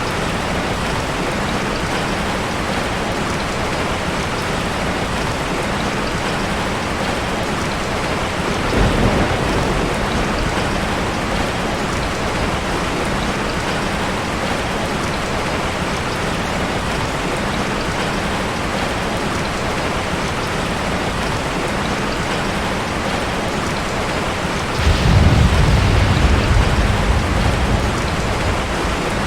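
Heavy rain falling steadily, with a short low rumble of thunder about nine seconds in and a louder, longer rumble of thunder near the end.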